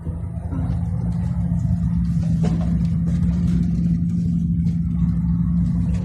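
Vehicle engine and road rumble with a steady low drone, heard from inside the cab; it grows louder about half a second in and then holds steady.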